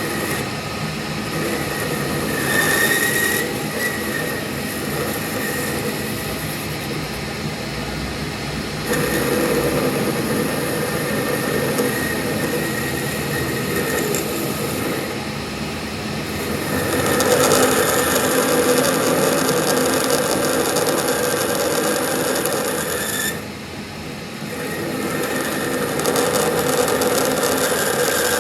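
A power tool running continuously in a steady, noisy drone that grows louder about a third of the way in and again past the middle, then drops briefly near the end before picking back up.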